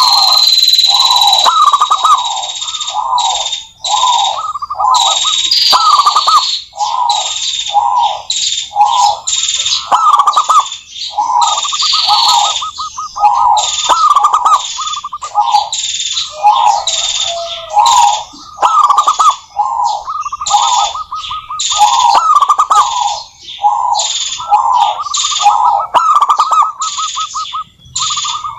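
Zebra doves singing continuously, phrase after phrase of rapid, rolling trilled coos with short pauses between them.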